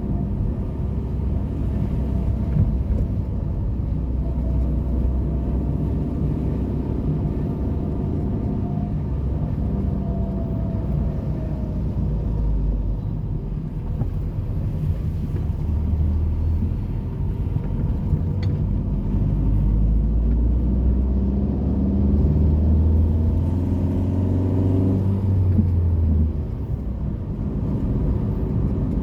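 Motor vehicle engine running with a low hum. In the second half its pitch climbs steadily for several seconds, then drops off suddenly near the end, as when an engine winds up under acceleration and the driver changes gear or lifts off.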